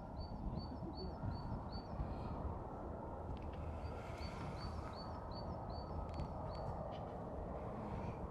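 A small bird chirping two runs of short, high notes at about three a second, over a steady low background rumble.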